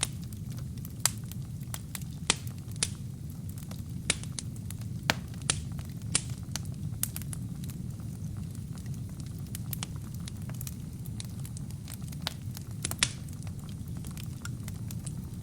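Wood fire burning in a fireplace: a steady low rumble of flames with irregular sharp pops and crackles from the burning logs, a few of them louder.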